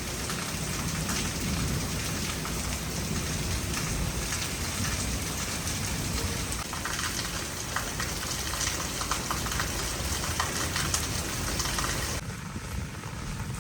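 Heavy rain falling: a steady hiss dense with individual drop impacts, over a steady low rumble. About twelve seconds in the sound changes abruptly and the hiss becomes fainter.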